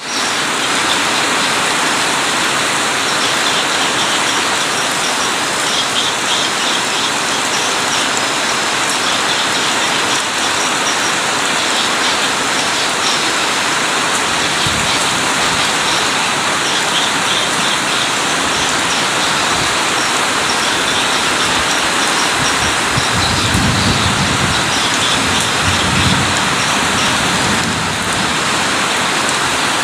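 Heavy rain pouring down in a steady downpour. A low rumble swells briefly about three-quarters of the way through.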